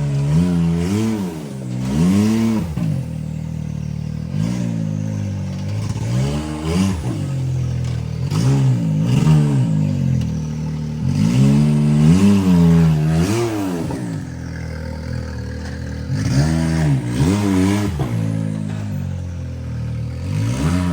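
Rock buggy engine revving repeatedly: the pitch climbs and drops back every second or two in throttle bursts, as on a rock crawl, with some clatter.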